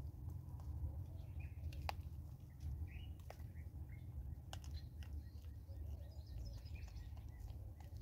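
Faint bird chirps over a low steady rumble, with a few sharp clicks of dried corn kernels as a vervet monkey picks through them on a wooden stump.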